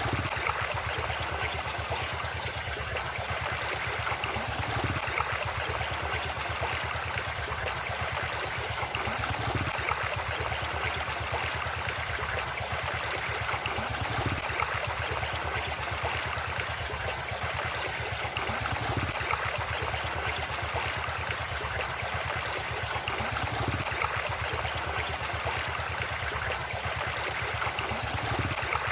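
River water flowing and gurgling: a steady rush of moving water with small splashes.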